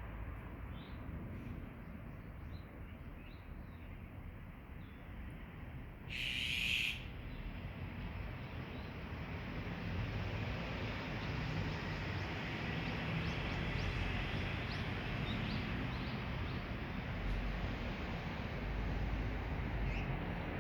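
Wild birds calling, with many short faint chirps and one louder burst of just under a second about six seconds in, over a steady low rumble.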